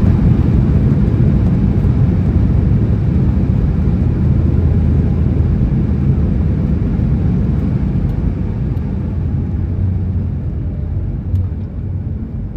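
Boeing 737 MAX 8 cabin noise heard from a window seat: a loud, deep, steady rumble with a faint hum above it, gradually easing off over the seconds.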